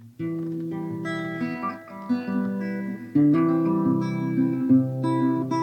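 Instrumental song introduction led by acoustic guitar, with chords held between changes; it steps up in loudness about three seconds in.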